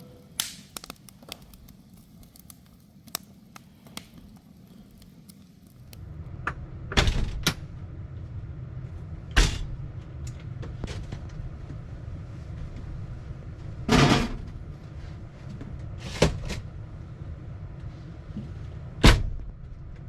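A few sharp knocks and thuds, like doors or cupboards being shut, over a steady low hum that starts about six seconds in. Before the hum there are only faint scattered clicks.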